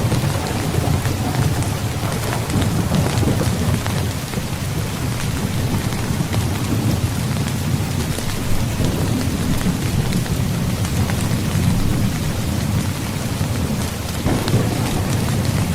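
Heavy rain falling steadily, with a low rolling rumble of thunder underneath that swells a little near the end.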